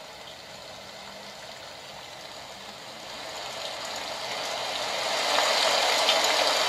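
HoMedics SoundSpa portable sound machine playing its recorded rain track: a steady hiss of falling rain with faint scattered ticks, growing louder from about three seconds in.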